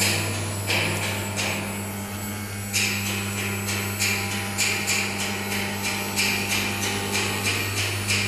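CNC wood router cutting wood with its spindle running: a steady hum under repeated sharp, rasping bursts. The bursts are uneven at first, then come about two or three a second.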